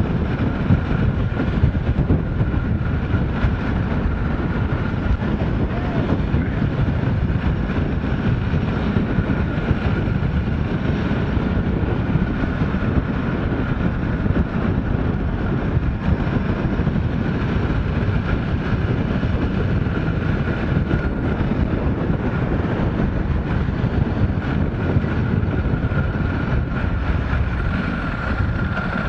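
Motorcycle on the move, its engine running under heavy wind rush on a helmet-mounted microphone, with a thin steady whine throughout.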